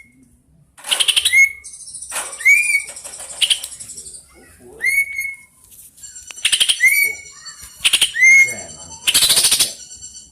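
Cucak ijo (greater green leafbird) singing a fast, continuous song: short upslurred whistles repeated again and again, broken by quick rattling trills and high thin whistles.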